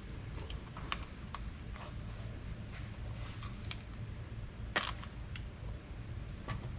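Scattered light clicks and knocks of objects being handled, with one sharper knock about five seconds in, over a steady low hum.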